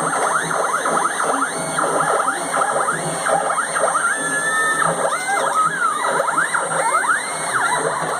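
Stepper motors of a home-built CNC machine driving its three axes together, whining in tones that rise, hold, and fall as each move speeds up and slows down, with several moves overlapping in quick succession.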